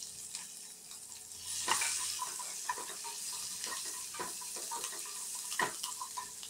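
Sliced onions, green chillies and curry leaves sizzling in hot oil in a non-stick kadai, stirred with a wooden spatula that scrapes and knocks against the pan again and again.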